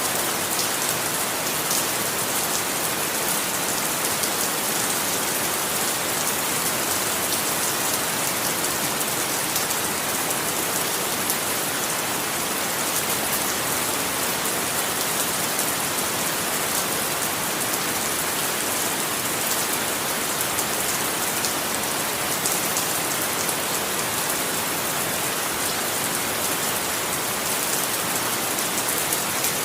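Steady rain falling on a surface, a dense continuous hiss with many fine drop patters, unchanging in level.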